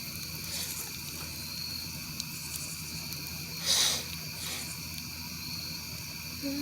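Campfire burning with a couple of small pops and a short loud hiss just past halfway. A steady high-pitched tone runs underneath.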